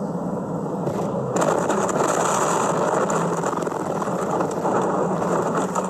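A moving car's road and engine noise, steady and hissing, with a steady low hum. About a second and a half in it turns suddenly louder and hissier.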